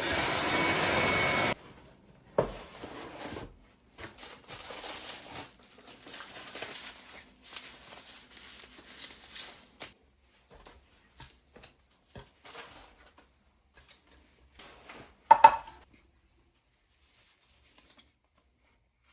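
A steady appliance motor whirring, cutting off suddenly about a second and a half in. Scattered rustling and light knocks follow, with one loud ringing clink about three-quarters of the way through.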